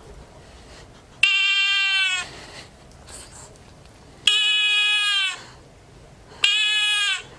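An animal call sound clip played three times, each call about a second long with a steady pitch that dips slightly at the end. The background falls silent under each call, as in an edited-in recording.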